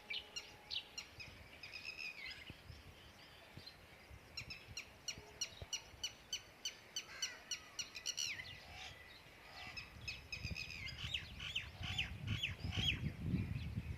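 Many small birds chirping in quick, high, repeated notes, overlapping one another. From about ten seconds in, a low rumbling noise builds up underneath.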